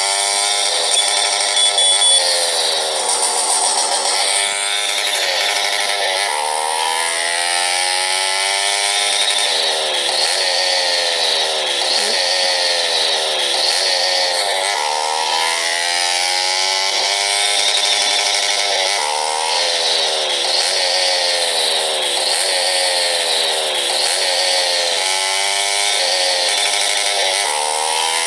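Small motorcycle engine running under way, its pitch repeatedly sinking and then jumping back up every two to three seconds as the throttle is eased and opened again.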